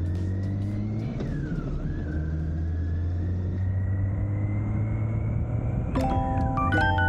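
BMW K1600GTL's inline six-cylinder engine running steadily under way, a low drone with a faint whine that slowly rises in pitch. Piano-like music notes come in near the end.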